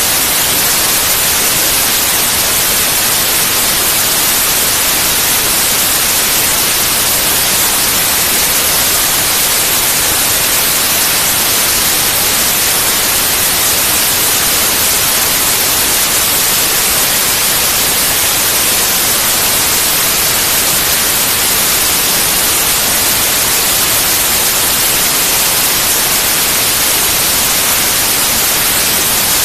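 Steady white noise: a loud, even hiss, brightest in the high pitches, with no change in level or character.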